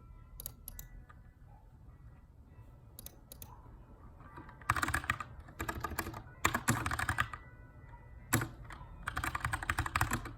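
Typing on a Keychron K2 aluminum mechanical keyboard with brown tactile switches. A few scattered keystrokes come first; from about four and a half seconds in come quick bursts of typing with short pauses between them, and one single sharp click near the end.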